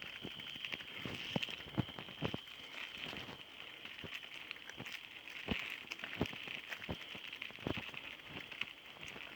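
Bicycle rattling over a rough unpaved road: irregular clicks and knocks from the bike and tyres over the bumps, with a steady high hiss underneath.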